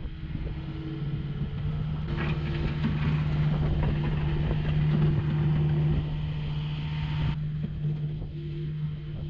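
Farm vehicle's engine running steadily, with extra hiss that comes in abruptly about two seconds in and drops away abruptly about seven seconds in.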